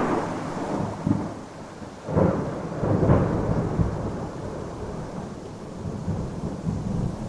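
Thunder over steady rain: a rumble dies away at the start, then a new clap of thunder comes about two seconds in, peaks again a second later and rolls off into low rumbling.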